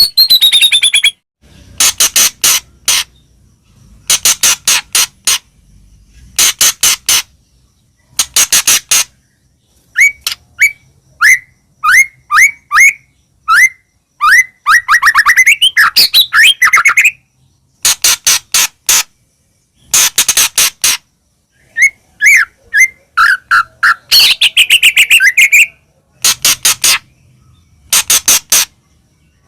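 White-rumped shama (murai batu) singing loudly: bursts of rapid harsh rattling notes, each about a second long with short pauses between, mixed with runs of short upswept whistles and longer wavering whistled phrases around the middle and near the end.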